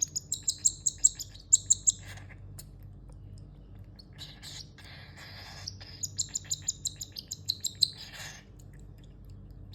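Young cockatiel chirping in rapid, evenly repeated high calls, about six a second. It gives two runs of them, one at the start and another about six seconds in.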